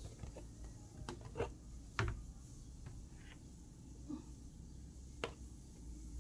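A few faint, scattered knocks and clicks, the loudest about two seconds in, over a low steady hum.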